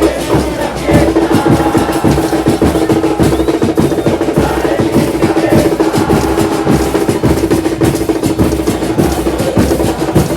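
Football supporters' bass drums (bombos) beating fast and continuously, with a steady held note over them from about a second in.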